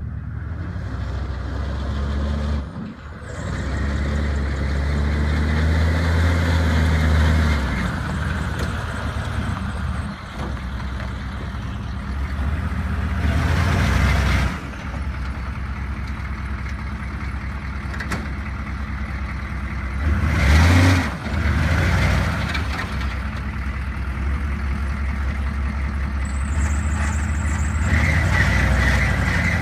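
Chevrolet 3500 HD one-ton pickup truck's engine running, its pitch rising and easing off several times, with louder swells about a third and two thirds of the way in.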